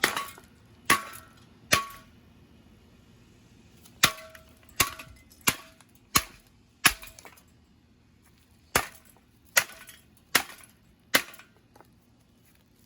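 A hammer striking a ceiling fan in about a dozen sharp blows, in three runs of three to five strokes about three-quarters of a second apart. Some blows leave a brief ring.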